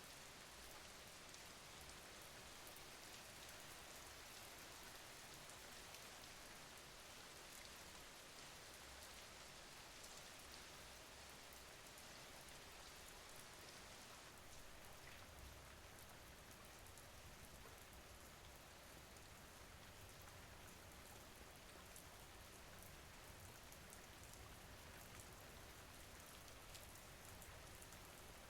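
Faint, steady rain falling, with a fine patter of individual drops.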